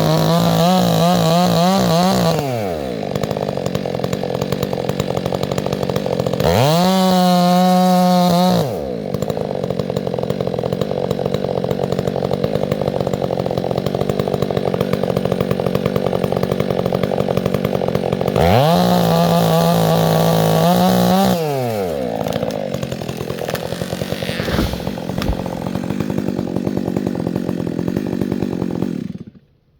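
Chainsaw engine revved to full throttle three times, each burst held for about two seconds before dropping back to a lower running speed, then shut off abruptly near the end.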